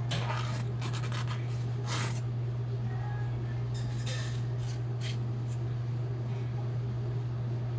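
Hand-forged Blue #2 steel kitchen knife being stroked across a sharpening water stone: a series of short, irregular scraping strokes in the first six seconds, then a pause. A steady low hum runs underneath throughout.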